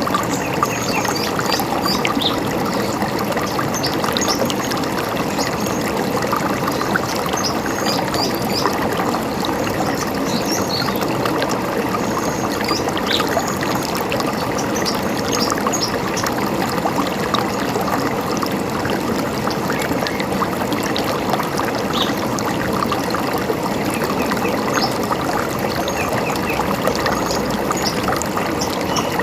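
A river running steadily over rocks, with small birds giving scattered short, high chirps over it.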